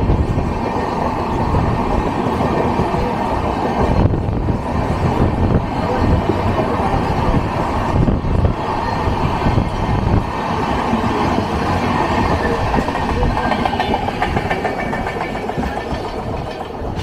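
Tejas Express passenger coaches passing close by at speed: a steady rumble of wheels on rails with clickety-clack over the rail joints. It fades slightly near the end as the last coach moves away.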